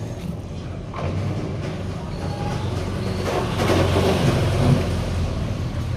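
Washing machine running: a steady low hum, with a louder rushing noise swelling up about halfway through and easing off again.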